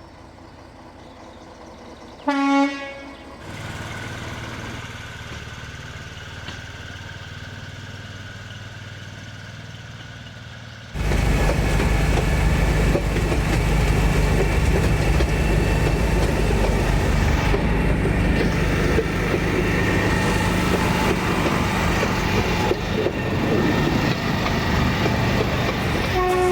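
Narrow-gauge train giving one short toot about two seconds in, then the steady sound of the train running, which jumps suddenly much louder about eleven seconds in.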